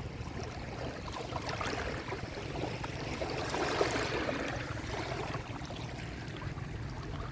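Sea waves washing onto a beach, one wave swelling to a fizzing wash of surf about four seconds in, over a low rumble.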